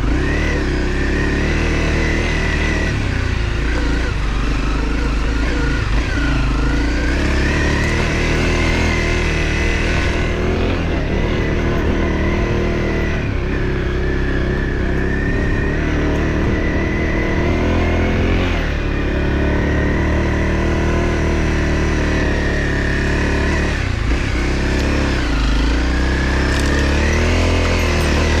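Small off-road vehicle engine running continuously, its pitch dipping and climbing again several times as the throttle is eased and opened.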